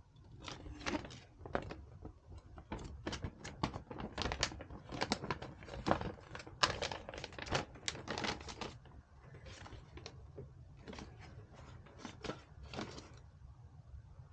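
Hands working on computer hardware: a dense, irregular run of small clicks, taps and rustles, thinning out near the end, over a low steady hum.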